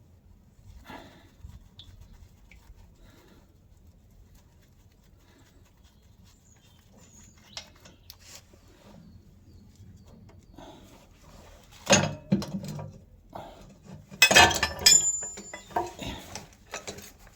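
Metal parts of an engine's fuel tank and tools clanking and clinking as they are handled. Light scattered clicks at first, then a few loud clanks near the end and a dense burst of clattering just after.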